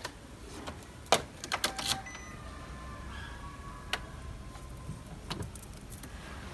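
A few sharp clicks and light rattles of the car's door and keys being handled, with a faint steady high tone between about two and five seconds in.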